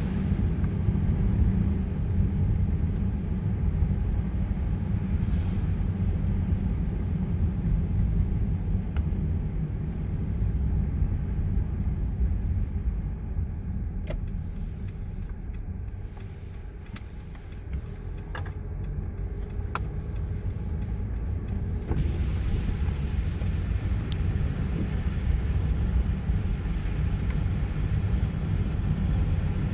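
Car driving on a snowy road: a steady low rumble of road and engine noise that eases off for several seconds in the middle, with a few faint clicks, then builds back up.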